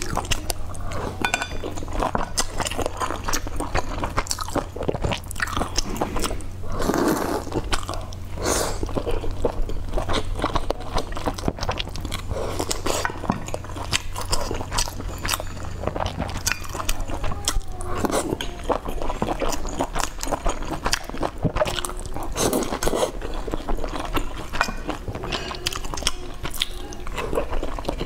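Close-up chewing and wet mouth sounds of someone eating soft boiled dumplings, with many small clicks and smacks, over a steady low hum.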